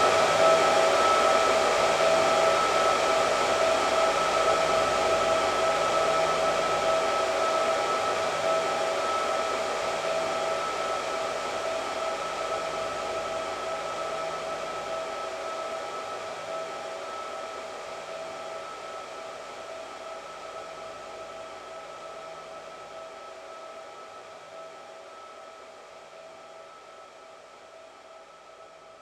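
Hair dryer blowing steadily, a rushing hiss with a steady whine over it, fading out gradually to faint.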